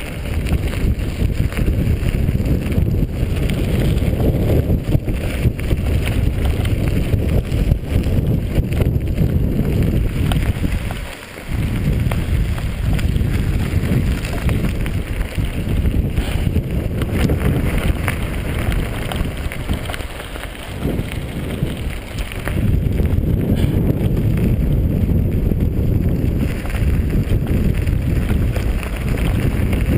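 Wind buffeting the microphone of a camera on a moving mountain bike, a heavy low rumble mixed with tyre and trail noise. It eases briefly about eleven seconds in and again around twenty seconds.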